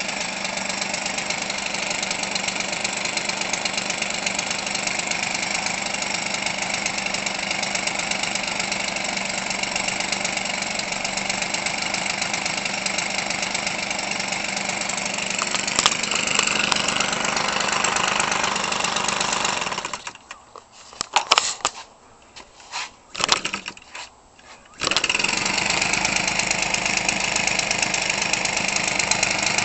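Weed Eater Featherlite 25cc two-stroke trimmer engine, converted for RC airplanes, running steadily with a propeller through its stock muffler, which keeps it quiet. About twenty seconds in the engine sound breaks off for about five seconds, leaving a few short pops, then suddenly comes back and runs steadily again.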